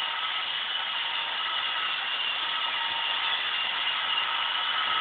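iRobot Roomba robot vacuum running: a steady whir of its vacuum motor and brushes with a faint whine.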